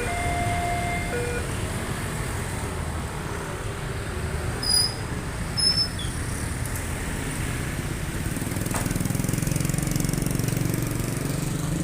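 Railway level crossing warning signal ringing its alternating two-tone chime, cutting off about a second in. Under it, road traffic engines rumble steadily. Two short high chirps come near the middle, and a rhythmic engine rumble grows louder near the end.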